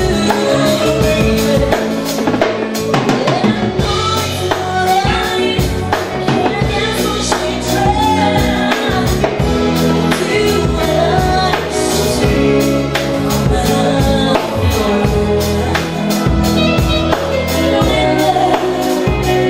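Live band playing a song with a steady drum-kit beat and a singing voice.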